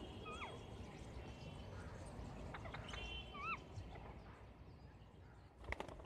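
Two short, clear bird calls about three seconds apart, each dipping and then rising in pitch, over a steady hum of outdoor background noise. Near the end comes a quick flurry of wing flaps from a green parakeet.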